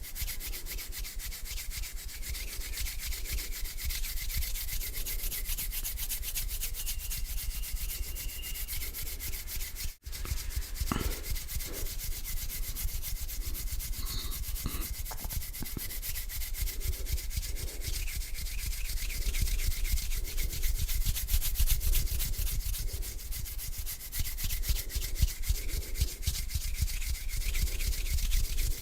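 Bare hands rubbing together slowly, a continuous dry swishing friction sound, with a momentary break about ten seconds in.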